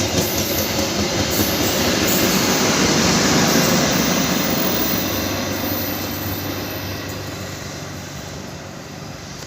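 Long train rolling past, its wheels clattering over the rail joints in a steady rumble that swells for the first few seconds and then slowly fades as the train moves away.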